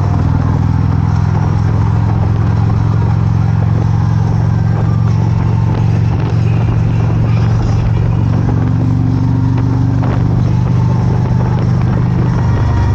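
Motorcycle engine running at a steady speed, a constant low drone.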